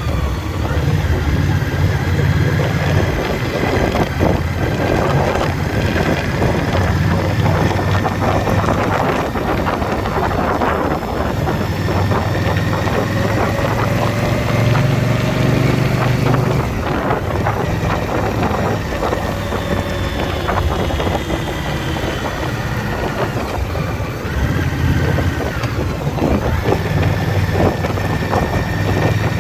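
Motorcycle engine running at riding speed, with wind buffeting the microphone. The engine's pitch rises and falls with the throttle, easing off briefly a few times.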